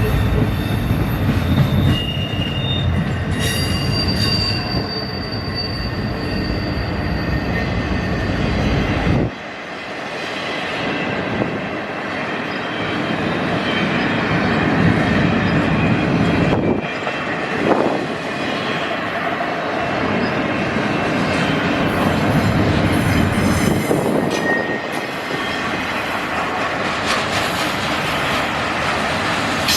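Railroad cars rolling past on the track, wheels clattering and squealing with thin high tones. A heavy low rumble drops away abruptly about nine seconds in.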